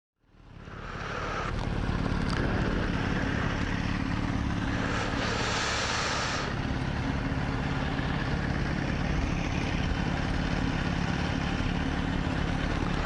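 Motorcycle engine running steadily under way, with wind noise on the microphone, fading in at the start. A louder rush of hiss comes about five seconds in.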